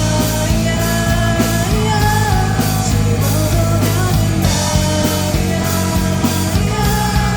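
Live rock band playing loudly: drums, bass, electric guitars and keyboard, with a sung vocal line over them.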